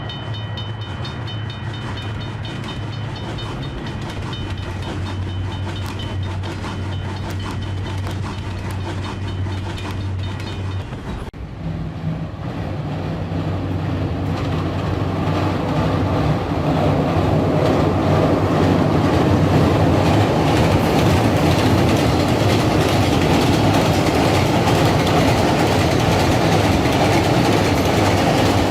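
A train running over a bridge, its wheels clattering over the rail joints above a steady hum. After a sudden break a little over a third of the way in, the rumble builds and stays loud as the train passes close.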